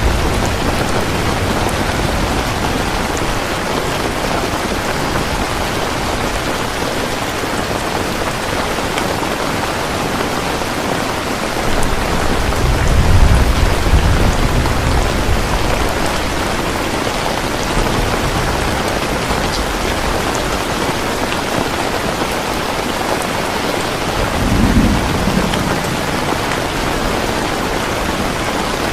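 Steady, heavy rain falling, with thunder rumbling twice: a longer, louder roll a little before the middle and a shorter one near the end.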